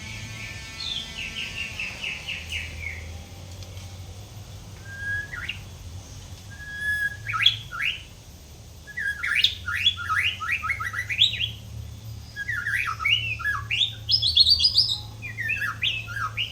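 White-rumped shama singing a run of varied phrases: quick falling whistled notes, a few held whistles, rapid chattering sweeps and rising high notes, with short pauses between phrases. A steady low hum runs underneath.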